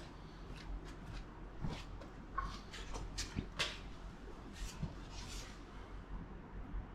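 Scattered light clicks and knocks, about ten spread over several seconds, over a faint steady low hum.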